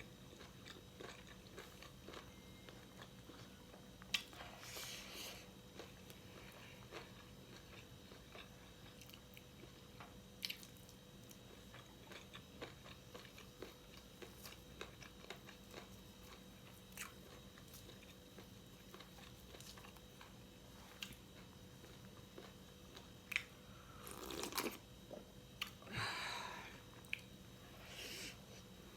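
A person chewing and biting fried pork close to the microphone: soft mouth clicks all through, with a few louder crunchy chewing stretches about five seconds in and again near the end.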